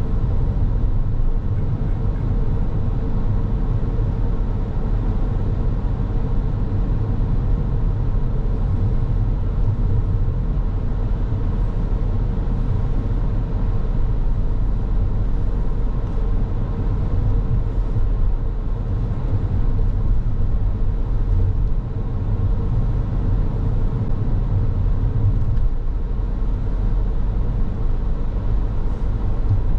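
Car driving along a road: a steady low rumble of engine and tyres on the road surface.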